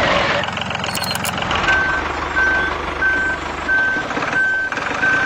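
Reversing beeper sounding repeatedly, short even beeps at one pitch about every 0.7 s, starting a little under two seconds in, over a steady low motor running. A brief rattle comes in the first second.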